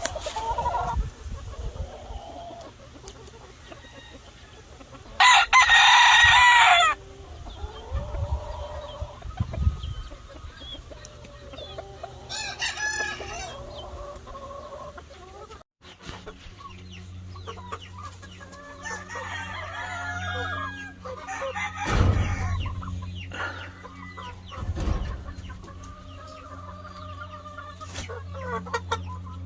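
Gamefowl roosters crowing and hens clucking in their pens. A loud crow about five seconds in lasts about a second and a half, and a shorter crow comes around twelve seconds. After a break about halfway through, a steady low hum runs under the scattered clucks and calls.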